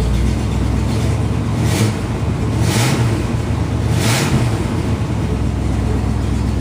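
1966 Pontiac Bonneville's V8 running shortly after a cold start, with three brief rises in engine speed about a second apart.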